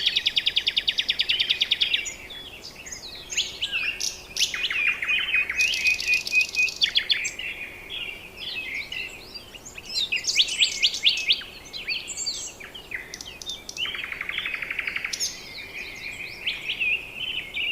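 Several birds singing and calling at once: a fast trill of rapidly repeated notes at the start, again about five seconds in and near the end, among many chirps and whistles.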